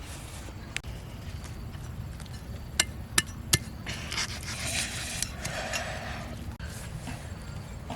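Three sharp knocks in quick succession, about a third of a second apart, a little under three seconds in, followed by softer scraping noise over a steady low rumble.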